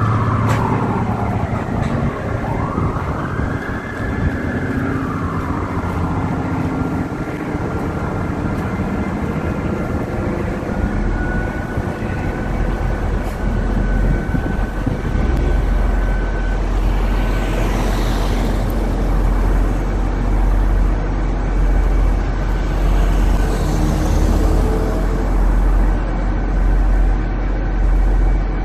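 City traffic noise with an emergency-vehicle siren wailing, its pitch rising and falling, in the first several seconds. About a third of the way in, a deep steady rumble comes in and carries on.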